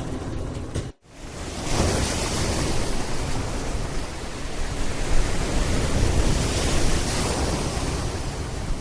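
Steady rushing noise, heaviest in the low end and gusting in level, like wind buffeting the microphone; it cuts out briefly about a second in, then resumes.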